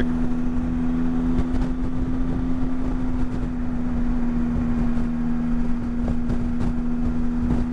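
Motorcycle engine running at a steady speed while riding, a constant even hum over a low rumble of road and wind noise.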